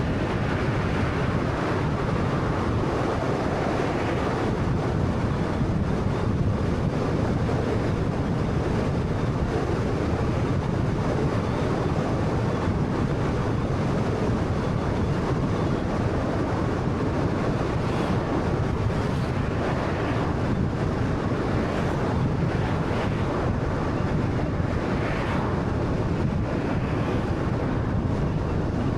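Steady road noise from a 2013 Honda Fit driving along: a constant low rumble of tyres on tarmac mixed with wind noise. A few faint brief sounds come through in the second half.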